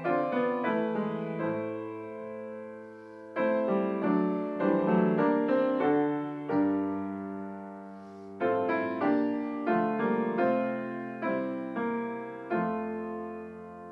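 Piano playing a slow, gentle piece in chords. Each phrase is struck and then left to ring and fade, with new phrases about every four to five seconds.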